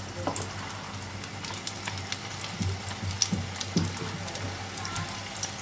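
Potato patties (aloo tikki) shallow-frying in hot oil in a pan: a steady sizzle full of small crackles and pops.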